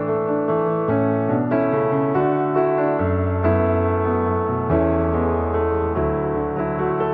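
Slow, gentle piano music, single notes and chords changing about once a second, with bass notes held underneath.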